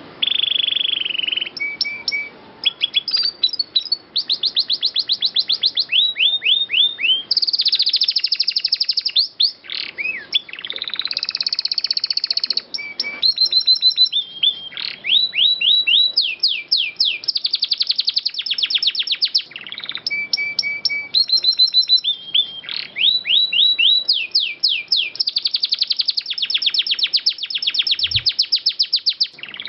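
Domestic canary singing continuously in long rolling trills: fast runs of rapidly repeated sweeping notes, broken up by short, steady whistled notes.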